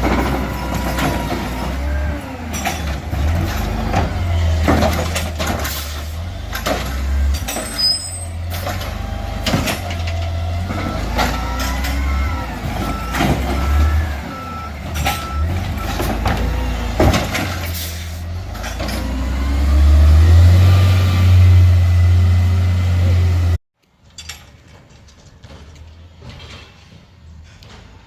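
Diesel garbage truck working a collection stop: a heavy engine rumble with repeated clanks and bangs, and a backup alarm beeping steadily for a few seconds midway. Near the end the engine revs up louder, then the sound cuts off abruptly to a much quieter truck scene.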